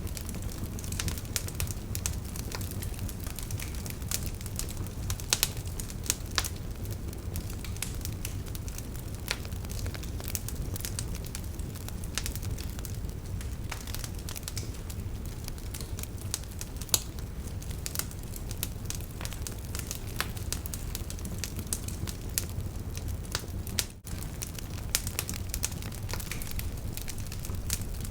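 Campfire crackling, with irregular sharp pops and snaps over a steady low rush. There is a momentary dropout a few seconds before the end.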